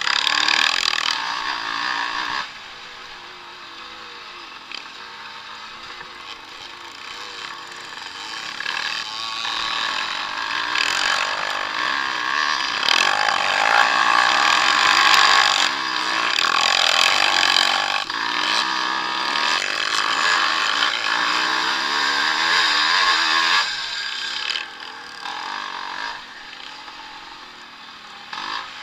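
Vintage motocross bikes racing on a dirt track, engines revving hard and falling back as they pass. A first loud pass ends sharply, then engines build to their loudest around the middle and stay loud until they fall away about three-quarters of the way through.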